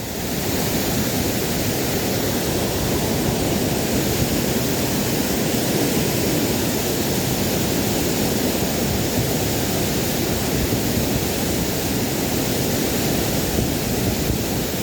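Waterfall's water rushing, a steady, even roar.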